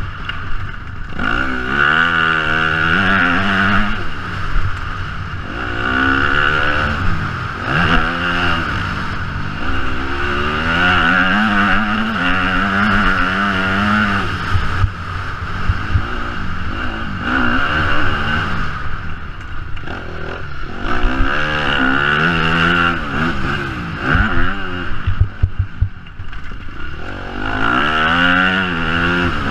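Yamaha motocross bike's engine, heard from an onboard camera, revving up and dropping back again and again as it accelerates, shifts and backs off around the track. A few sharp knocks come from the bike near the end.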